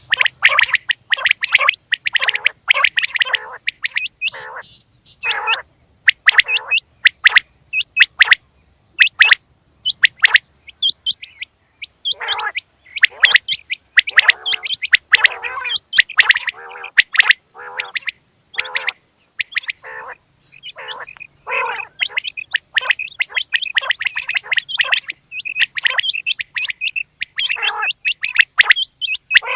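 Female quail calling: dense runs of short, rapid, raspy notes in bursts, with brief lulls.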